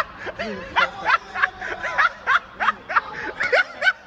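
Several young men laughing: short, repeated bursts of voiced laughter, about three a second.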